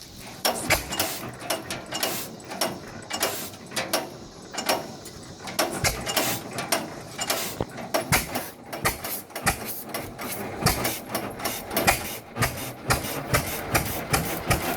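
Single-cylinder 1917 Fairbanks Morse Model Z 6 hp hit-and-miss engine being started by hand: a run of mechanical clicks and knocks, uneven at first, that turns into a more regular clatter from about six seconds in as the engine catches and runs.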